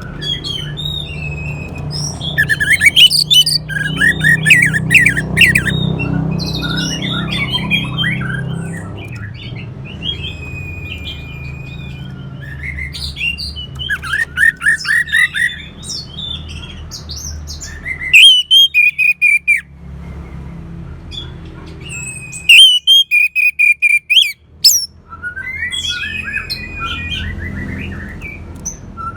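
Orange-headed thrush singing a long, varied song of quick twittering and whistled phrases, with two runs of rapid, sharply repeated loud notes about two-thirds of the way through.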